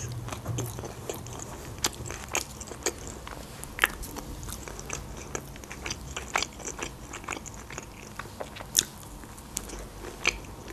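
Close-miked mouth sounds of a person chewing a shawarma wrap: irregular wet clicks and smacks, a few sharper and louder than the rest.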